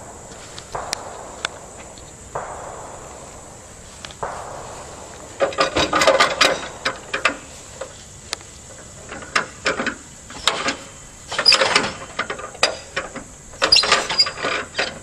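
Metal clanks, knocks and squeaks from the hand crank of a 1948 Allis-Chalmers tractor being engaged and turned over in several bursts; the engine has not yet started.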